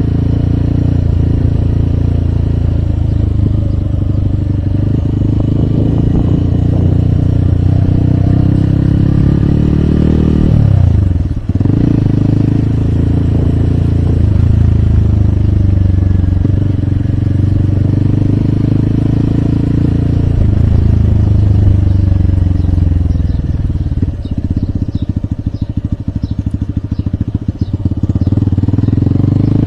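Hero Hunk's single-cylinder four-stroke motorcycle engine running while riding, its revs rising and falling. The revs dip sharply about eleven seconds in, run low with slow, distinct firing pulses for a few seconds near the end, then pick up again.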